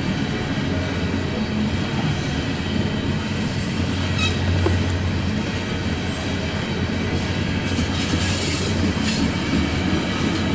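Loaded coal train's cars rolling past steadily: steel wheels running on the rails in a continuous low rumble.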